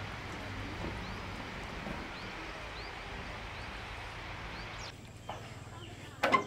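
Outdoor ambience: a steady hiss with a bird's short rising chirps repeated about twice a second. Near the end comes a sudden loud dog bark.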